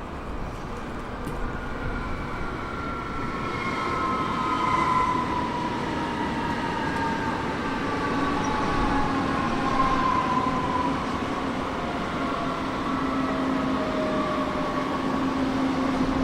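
A train moving through a station, with steady wheel and rail rumble and several whining tones that slide slowly down in pitch over about ten seconds.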